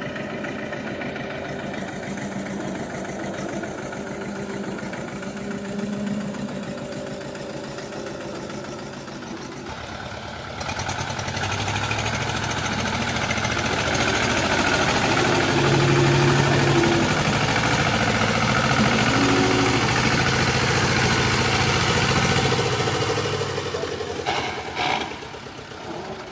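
HMT tractor's diesel engine running. It gets abruptly louder about ten seconds in and stays there, then drops back near the end with a couple of sharp knocks.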